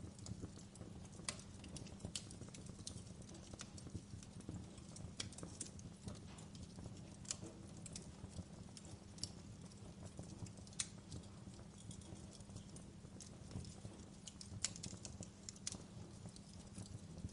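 Fireplace fire crackling: irregular small pops and snaps over a low steady hum.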